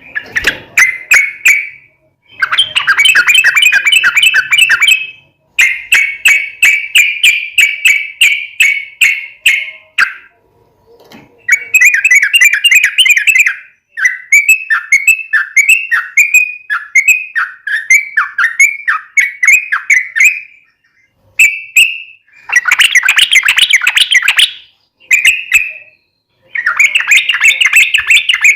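Yellow-vented bulbul (trucukan) singing in rapid, bubbly chattering phrases a few seconds long, with short pauses between. Midway comes a run of short downslurred notes, about two a second.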